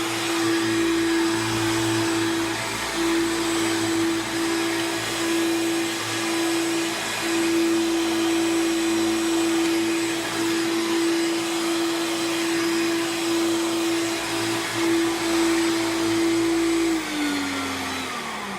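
1994 Hoover Turbo Power 2 AutoSense upright vacuum cleaner running steadily, with a motor whine over rushing air. Near the end the motor winds down and its whine falls in pitch.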